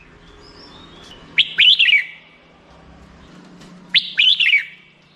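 Red-whiskered bulbul singing: two short, loud phrases of quick rising-and-falling whistled notes, about two and a half seconds apart.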